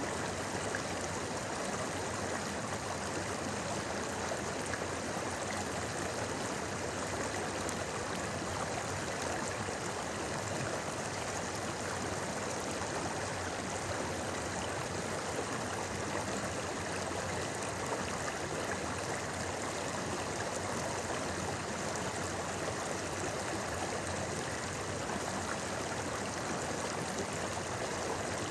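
River stream flowing over rocks, a steady babbling rush of water.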